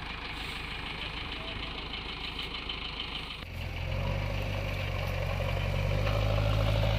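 Tractor diesel engine running steadily; about halfway it suddenly becomes louder and deeper, and the loudness builds slowly until near the end.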